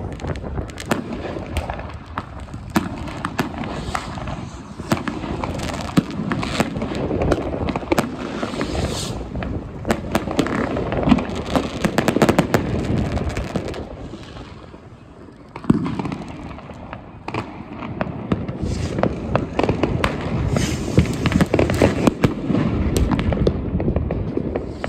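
Dense New Year's fireworks: many bangs and crackles from rockets, firework cakes and firecrackers going off one after another and overlapping. There is a short lull of a second or two past the middle, ended by a loud bang.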